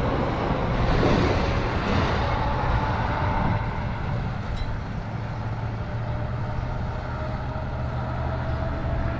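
Steady low rumble of wind buffeting a GoPro microphone, mixed with tyre noise, while riding a bicycle along a trail.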